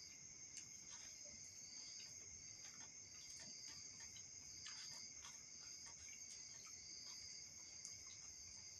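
Faint chorus of crickets: steady high-pitched trilling with a pulsing layer beneath it, and a few faint ticks scattered through.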